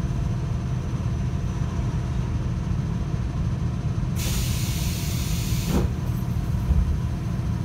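Inside a JR Hokkaido 721 series electric train: a steady low rumble, and about four seconds in a sharp hiss of compressed air being let out, lasting about a second and a half before it cuts off suddenly.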